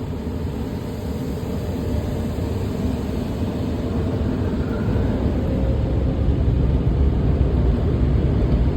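Automatic car wash air dryer blowers, a steady rush of air heard from inside the car, growing gradually louder as the car is pulled toward them.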